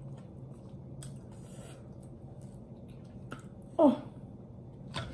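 A person chewing spicy sauce-coated chicken close to the microphone, with wet mouth sounds and a few small clicks over a low steady hum. Near the end comes a loud exclaimed 'Oh' that falls in pitch.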